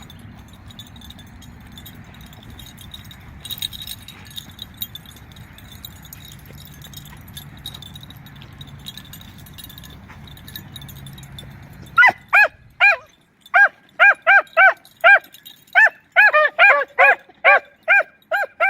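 A steady low background rumble, then about twelve seconds in, beagles break into baying on a rabbit's scent: loud, short, pitched barks coming two or three a second in quick runs. The handler takes the baying to mean the rabbit has crossed the road.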